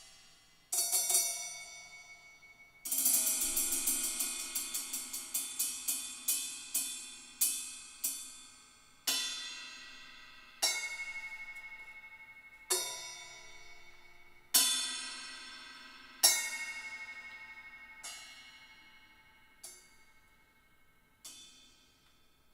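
Music played back through Canton Plus S two-way mini speakers: ringing metallic percussion, cymbal-like strikes that each ring out and fade. A fast run of strikes comes a few seconds in, then single strikes every second or two, fainter near the end.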